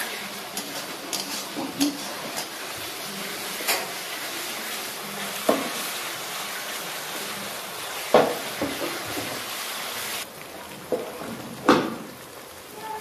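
Chopped onions sizzling as they fry in oil in a metal kadai, stirred and scraped with a steel spatula that knocks against the pan four times. The sizzle drops off sharply about ten seconds in.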